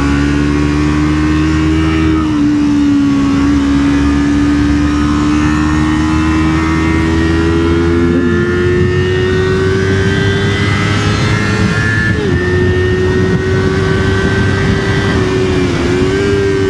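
Yamaha R25's parallel-twin engine running under way, loud and steady. Its pitch climbs slowly and dips briefly twice, near the middle and near the end.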